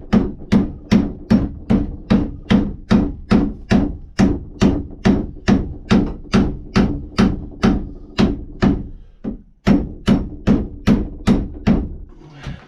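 Hammer blows driving a wooden wedge into the eye of an axe head to seat the head on its handle. A steady run of about two and a half strikes a second, each with a short ring, pauses briefly about nine seconds in, then carries on until just before the end.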